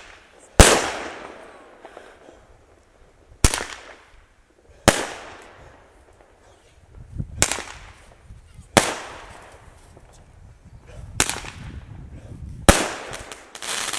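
Fireworks bursting: about seven sharp bangs, one every one to three seconds, each fading away after it.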